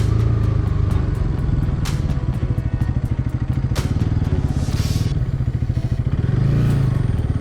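Motorcycle engine running on the move at low revs, a Bajaj Pulsar NS200, its pitch easing off after the start and picking up again near the end. Two sharp clicks come about two and four seconds in.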